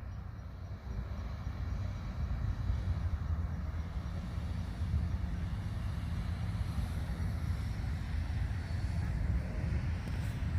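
Steady low rumble of outdoor noise with a faint hiss above it, with no distinct events.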